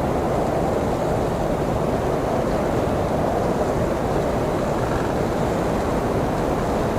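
Blizzard wind blowing steadily: an even, low rushing noise without gusts or breaks.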